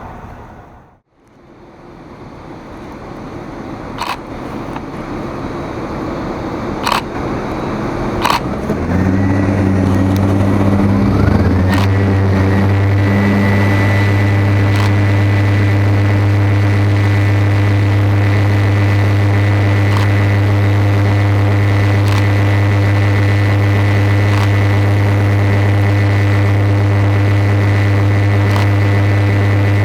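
Heavy engine noise that builds over several seconds, with a few sharp clicks, then settles into a loud, steady drone with a high whine that rises and holds.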